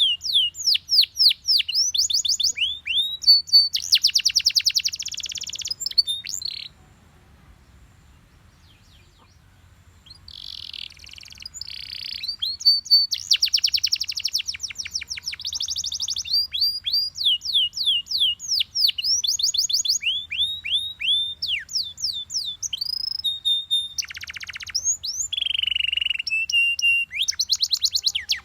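A yellow Belgian canary singing: fast runs of falling whistled notes mixed with dense, buzzing trills. The song breaks off for about three seconds about seven seconds in, then resumes.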